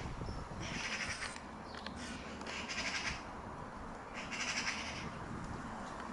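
A bird giving harsh, crow-like calls three times, about two seconds apart, over a low steady rumble.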